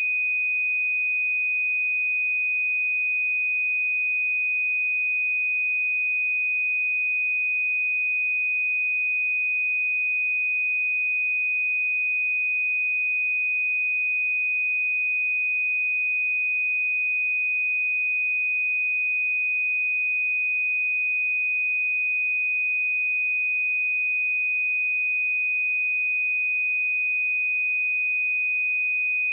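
A steady, unbroken 2493 Hz sine-wave test tone: a single pure high-pitched note held at constant pitch and level.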